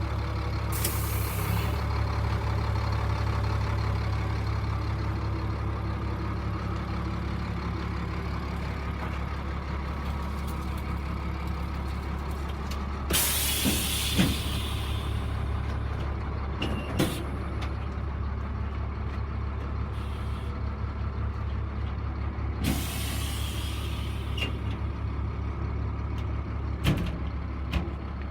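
1997 Freightliner truck's diesel engine idling steadily, with bursts of compressed-air hiss: a short one about a second in, longer ones about halfway through and again about three-quarters through. A few sharp clicks are also heard.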